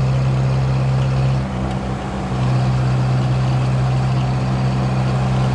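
VAZ 2107's four-cylinder engine and road noise heard inside the cabin while driving: a steady drone. About a second and a half in, the note breaks and drops for under a second, then returns.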